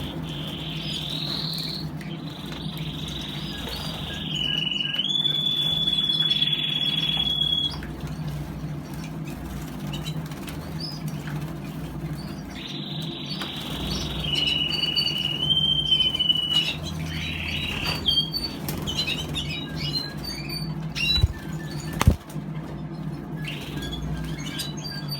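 Isabel canaries splashing in a bath, with fluttering wings and flicked water, while a canary sings long rolling trills in two stretches. A steady low hum lies underneath, and there are two sharp knocks near the end.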